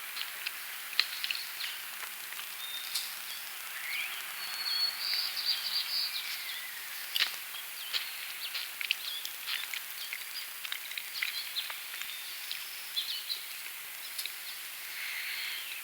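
Several songbirds chirping and singing, with short high notes, a few quick trills and rising and falling whistles, over a steady outdoor hiss. Scattered short clicks are mixed in.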